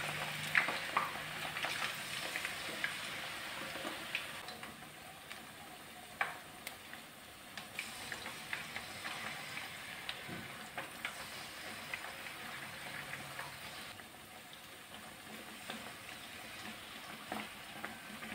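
Batter-coated sweet potato pieces deep-frying in hot oil: a steady sizzle with scattered crackles and pops, busiest in the first few seconds and then calmer.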